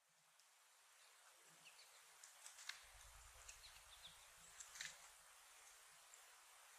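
Faint outdoor ambience with scattered short, high chips and clicks from small birds, and a faint low rumble joining about three seconds in.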